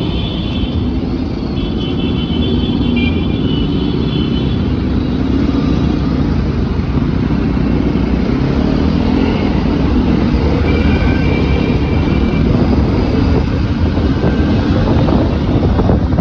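Motorcycle engine running steadily while riding, mixed with wind rumble. Short high-pitched tones sound a few times near the start and again about two thirds of the way through.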